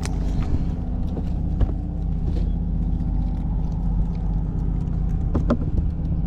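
Steady engine drone, a low even hum that holds without change, which the angler takes for an airboat. A few light clicks sound over it.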